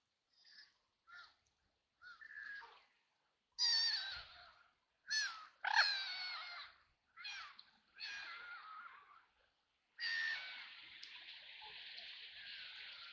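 White domestic ducks quacking: soft short calls at first, then a run of loud, harsh quacks, and a longer rasping call near the end.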